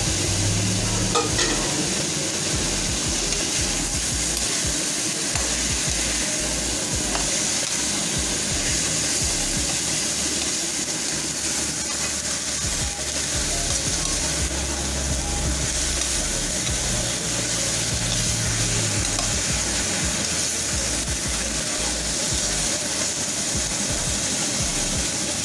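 Whole shrimp, tomatoes and onions sizzling in a hot wok, with a steady hiss, while a metal spatula stirs them.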